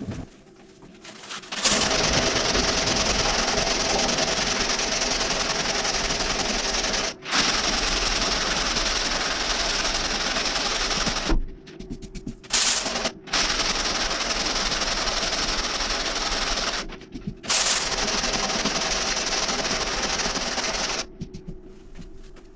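Loud, steady machine noise from a running motor. It starts about two seconds in, drops out abruptly a few times and stops shortly before the end.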